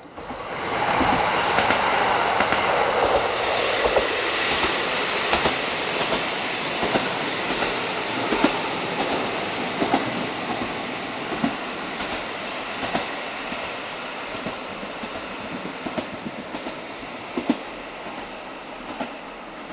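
Train running past on the Sekihoku Line, its wheels clicking over rail joints in a regular rhythm. It comes in suddenly, is loudest in the first few seconds, then slowly fades as the clicks spread further apart.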